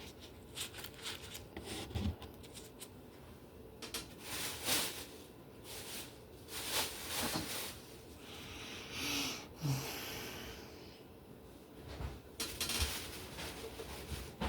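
Scattered light kitchen handling noises: taps, clicks and scrapes of dishes and utensils being moved, with a brief rustling hiss about nine seconds in.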